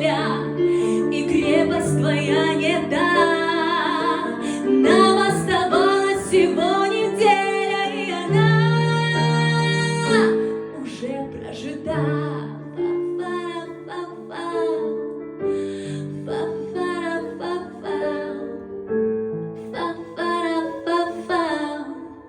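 A female singer's voice performing a pop ballad over an instrumental backing track. She holds one long note about nine seconds in, then the music grows quieter.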